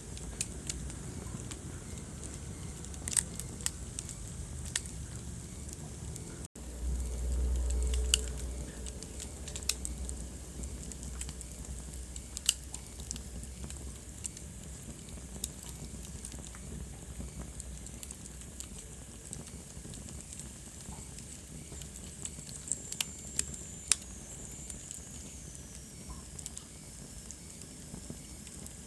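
Wood fire burning in a fireplace: a steady low rumble of flames with scattered sharp crackles and pops. The rumble cuts out for an instant about six seconds in and comes back louder for a couple of seconds, and a faint high whistle falls in pitch near the end.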